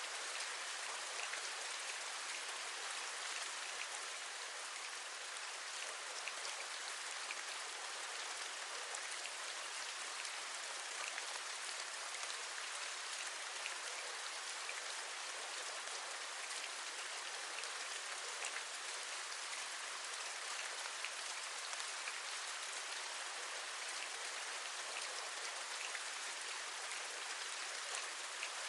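Steady rain: an even hiss with a dense scatter of small drop ticks.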